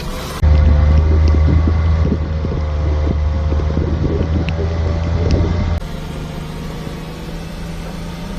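Supercharged three-cylinder kei mini truck engine running steadily under way in low gear, loud through the first five seconds or so with crackly noise over the engine note, then quieter for the rest.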